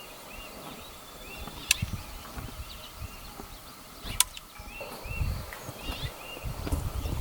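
Two sharp clicks, about two and a half seconds apart, over a bird's short chirp repeated about twice a second. Low rumbling noise, like wind or handling, comes in near the end.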